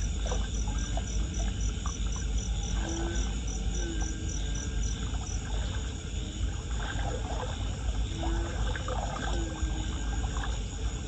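Floodwater running and gurgling into a street drain with a steady low rumble. A high, rapid pulsing of about four beats a second runs over it and stops about five seconds in, and short low hoots come every second or two.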